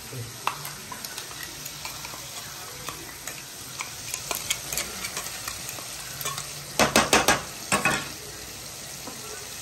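Onion-tomato masala gravy sizzling as it fries in an oiled non-stick kadai, with a wooden spatula scraping and stirring as ground spice paste is added. A quick run of loud knocks comes about seven seconds in, and another soon after.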